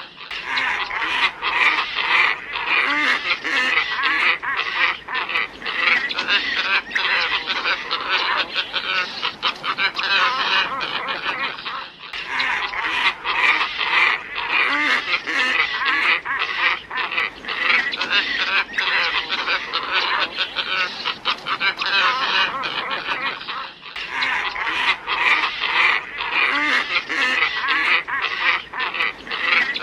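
A flock of glossy ibises calling, many overlapping calls in a dense chorus. It is a bird-lure recording, with the same stretch repeating about every 12 seconds.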